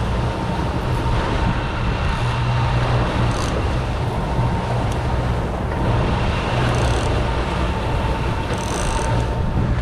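Boat engine running steadily at trolling speed, a constant low hum with a faint steady whine above it, over an even wash of water and wind noise.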